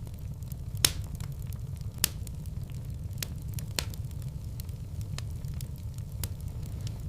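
Wood fire burning in a fireplace: a steady low rumble with scattered sharp crackles and pops, the loudest snaps about a second in and again about two seconds in.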